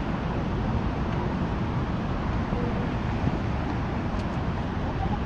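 Steady low rumble of vehicle and road noise, with no distinct engine note or revving.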